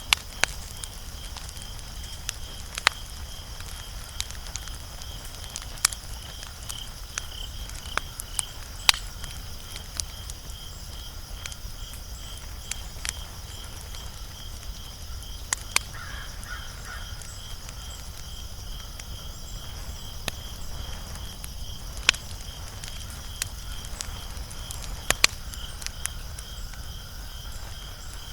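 Wood fire crackling, with sharp, irregular pops a few seconds apart over a steady low rumble. A high chirping pulses steadily about twice a second behind it, like insects calling.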